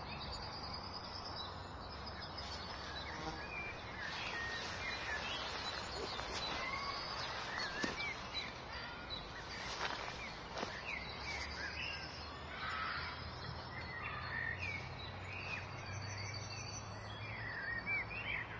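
Small birds chirping and twittering in quick, scattered calls over a low steady hum, with a few faint taps.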